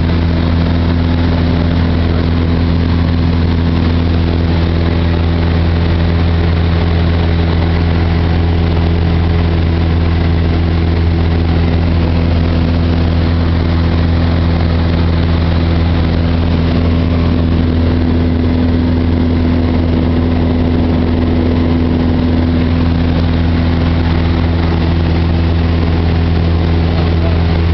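Cessna 172's piston engine and propeller droning steadily in flight, an unbroken, even note with no change in power.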